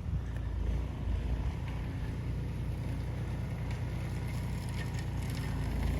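Snowblower engine running steadily with a low rumble.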